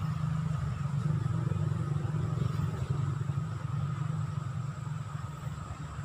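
A motor vehicle's engine running with a steady low rumble, loudest in the first couple of seconds and slowly fading toward the end, as if passing and moving away.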